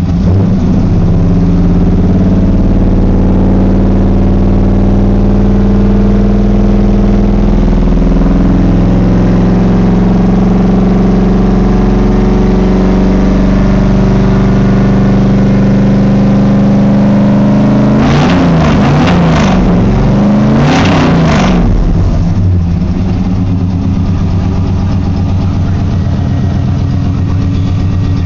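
A 1995 Chevy Silverado's 355 small-block V8, recently cold-started, idling through Flowmaster Super 10 mufflers with the catalytic converters still fitted. The idle holds steady except for an unsteady stretch of about four seconds, roughly two-thirds of the way in.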